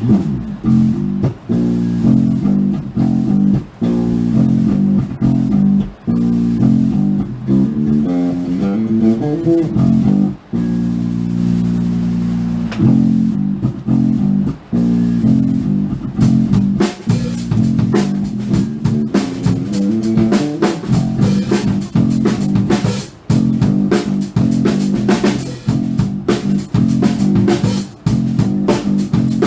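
Live rock band sound check: a bass guitar and electric guitar play a riff of plucked low notes, and the drum kit comes in about halfway through with a steady beat.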